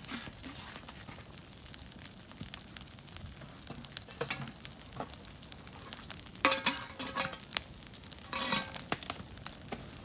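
Camp cooking gear being handled: small crackles and clicks throughout, with two louder spells of clinking and rattling, about six and a half and eight and a half seconds in.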